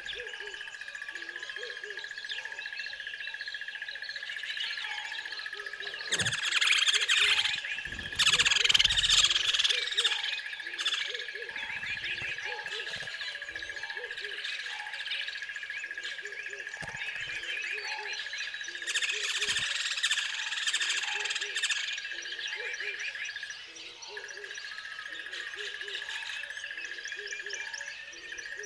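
Nature ambience: many birds chirping and singing over one steady high-pitched drone, likely insects, with a low frog-like croak repeating about once a second. The birdsong swells louder twice, about six to ten seconds in and again around twenty seconds.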